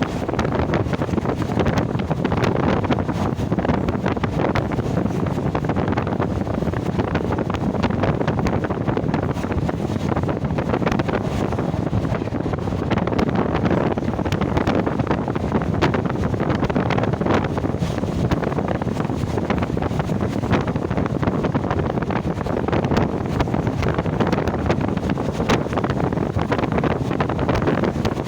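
Strong wind buffeting the microphone over the steady rumble of a moving train.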